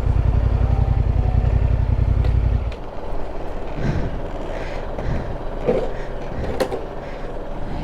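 Yamaha Ténéré 700's parallel-twin engine idling steadily, then switched off about two and a half seconds in, leaving a quieter background with a few faint knocks.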